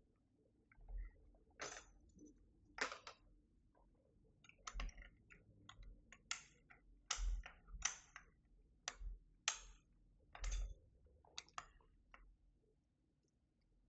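Irregular plastic clicks and clacks of keycaps on a Keychron V6 Max mechanical keyboard as keys are fitted and pressed, about a dozen spread over ten seconds, some with a dull knock underneath.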